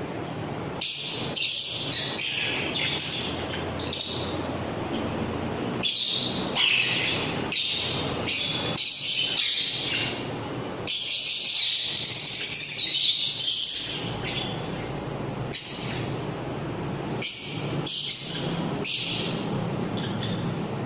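A mixed flock of pet parrots, such as ringnecks, cockatiels, lovebirds and budgies, calling and chattering: many short shrill screeches one after another, with a longer stretch of dense overlapping chatter about halfway through.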